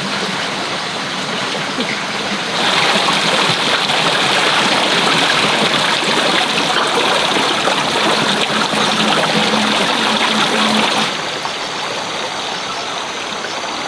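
Steady rush of running water. A louder stretch begins abruptly about two and a half seconds in and cuts off abruptly about eleven seconds in.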